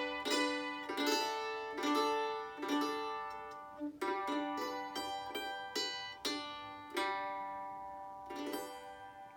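Instrumental song ending: a plucked string instrument plays separate notes that each ring out, slowing to a last note about eight and a half seconds in and then fading away.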